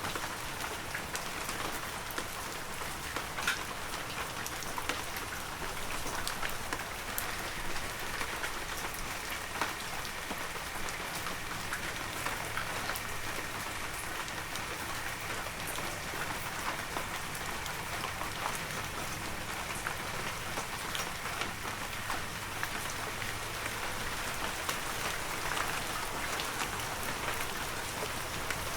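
Heavy rain falling steadily, a dense even hiss with the sharp ticks of individual drops striking surfaces.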